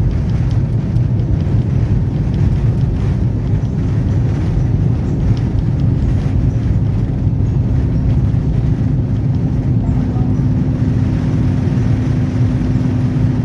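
Jet airliner cabin during take-off: a steady, loud low rumble of engine and airflow noise, with a steady hum joining in about four seconds in.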